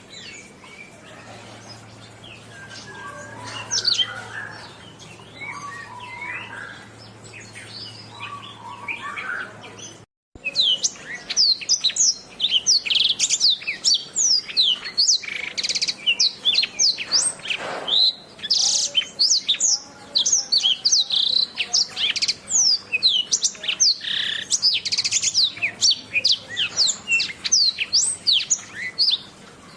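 Canary singing: fast runs of high whistled notes, each sliding up or down. A brief drop-out about ten seconds in, after which the song is louder and denser.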